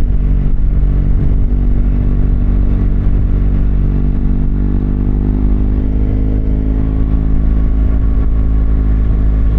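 BMW R1200GS Adventure's boxer-twin engine running under way at steady revs, its pitch rising gently a little past halfway.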